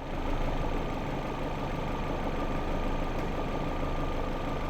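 Car engine idling steadily, with a thin constant whine above the running noise.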